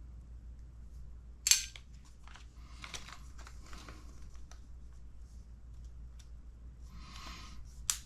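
Small steel differential balls for an RC10T ball diff clicking and rattling as they are handled and counted out, with a sharp click about a second and a half in and another near the end.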